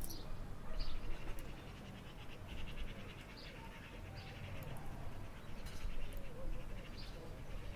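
Birds chirping in short, repeated high calls over a steady low background rumble, with a sharp click at the start.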